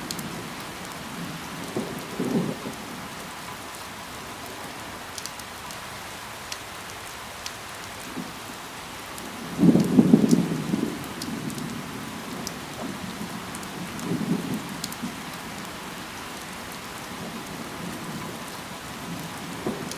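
Steady rain falling on leaves, a continuous hiss with scattered sharp drip ticks. Brief low swells of sound rise out of it, the loudest lasting about a second and a half roughly ten seconds in, with smaller ones near two and fourteen seconds.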